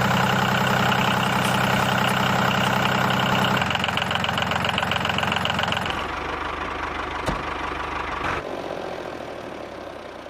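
Engine idling steadily with a low, even beat. Its sound shifts about three and a half seconds in and again near six seconds, then fades away over the last few seconds.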